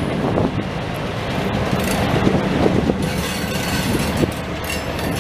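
Short-line freight train rolling past, first the locomotive and then its freight cars: a steady rumble of wheels on rail with scattered clanks.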